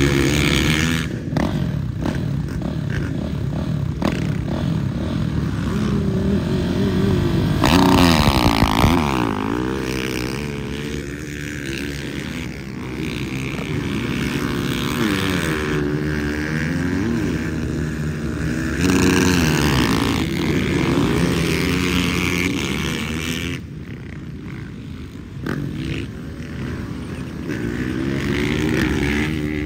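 Several motocross bikes' engines revving and accelerating, their pitch climbing and falling as they run through the gears, with the loudest surge about eight seconds in.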